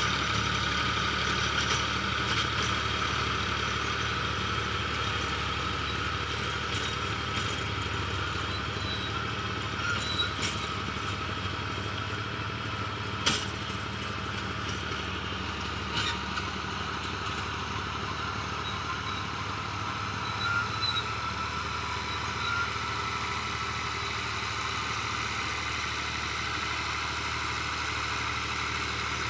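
Tractor engine running steadily, with a few short sharp clicks partway through.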